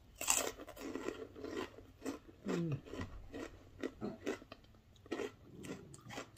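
A person chewing and crunching food in quick, irregular bites, with a short hum that falls in pitch about two and a half seconds in.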